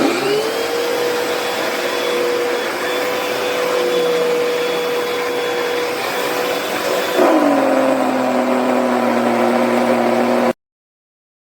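Hoover PowerDash Pet compact carpet cleaner switched on, its motor whining up to a steady pitch over a rushing suction noise. About seven seconds in, the pitch drops sharply and the sound grows a little louder. It then cuts off suddenly.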